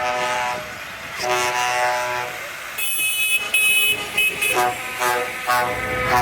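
Several vehicle horns tooting in held blasts of about a second each, at different pitches, over running engines from the passing tractor run. The engine sound grows louder near the end.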